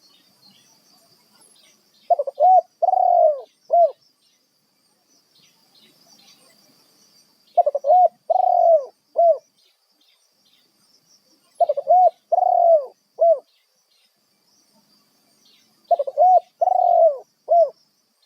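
Spotted dove cooing: four phrases about four seconds apart, each a quick run of about four short, arching coo notes. A faint steady high-pitched drone runs underneath.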